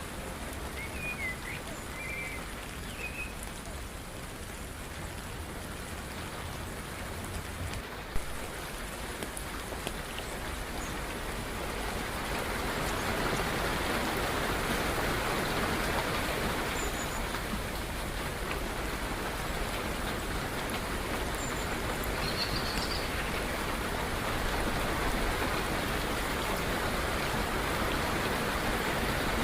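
Steady rain falling, growing heavier about twelve seconds in, with a few faint bird chirps over it. A single sharp click sounds about eight seconds in.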